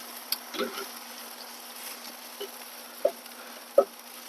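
Chicken pieces sizzling faintly on a charcoal kettle grill, a steady quiet hiss, with a few light metal clicks scattered through it.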